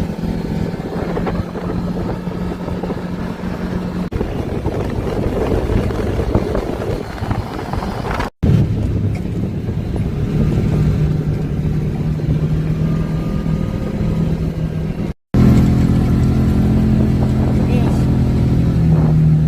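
Engine of an off-road vehicle running steadily while driving along a trail, with road and wind noise. The sound cuts out briefly twice.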